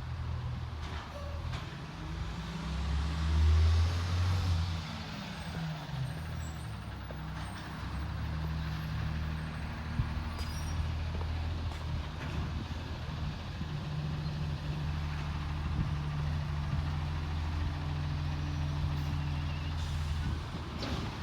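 Garbage truck's diesel engine running, revving up with rising pitch about three seconds in, then settling into a steady low drone, with a single sharp click about halfway through.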